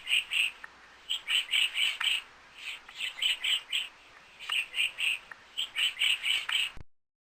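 A bird calling in short, clear chirps, grouped in runs of three to five with brief pauses between runs; it cuts off suddenly near the end.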